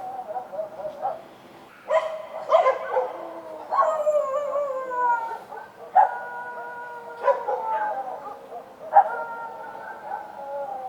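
Street dogs at night barking and howling, several at once: sharp barks every second or two that run into long drawn-out howls, some of them sliding down in pitch.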